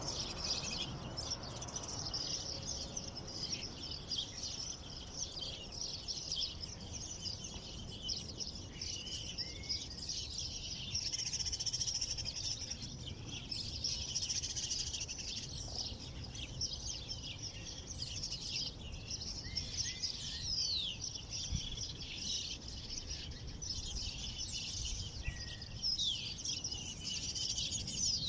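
Many small birds chirping and twittering at once, a dense, continuous chorus of short high chirps and quick sweeping notes, over a steady low rumble.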